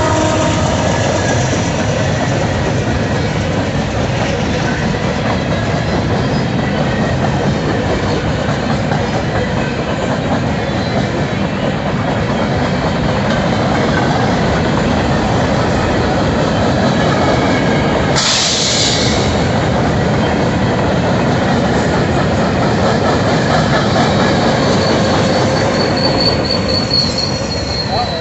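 Freight cars rolling past with steady wheel clatter. About two-thirds through, a short sharp hiss of air as the train goes into emergency braking, and near the end a high steady brake squeal sets in as the brakes take hold.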